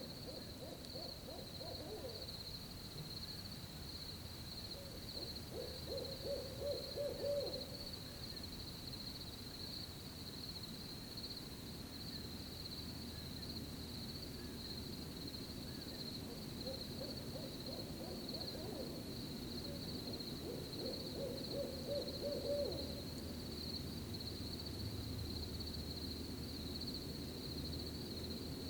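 Owl hooting in runs of rapid hoots, two runs a few seconds apart and then two more later, over a steady, unbroken trill of crickets.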